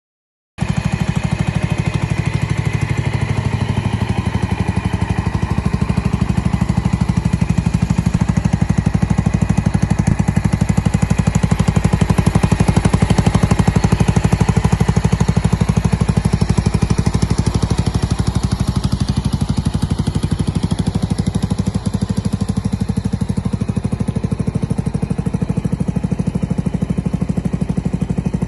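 Suzuki Skywave 250 (CJ44A) scooter's single-cylinder engine running steadily through its custom muffler. The exhaust note starts about half a second in and holds an even, loud pulse.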